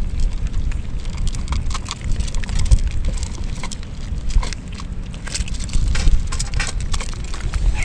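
Rain falling, with many irregular taps of drops over a steady low rumble.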